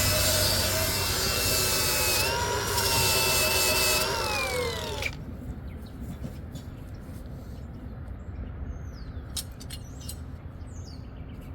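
Grinder with a wire brush scrubbing old paint off a fire hydrant's hold-down nut seam, its motor whining steadily, then winding down in pitch and stopping about five seconds in. A few light clicks follow.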